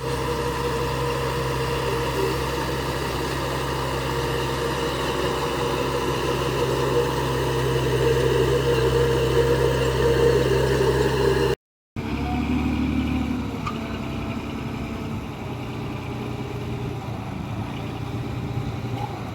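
Heavy construction machine's diesel engine running steadily, then cut off abruptly about 12 seconds in; after a moment's silence a quieter engine sound carries on.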